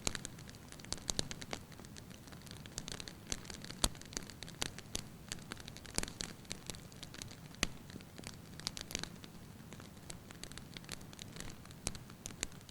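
Firewood burning in a fireplace with a light, irregular crackle: scattered small snaps and a few louder pops over a low steady rumble of the flames.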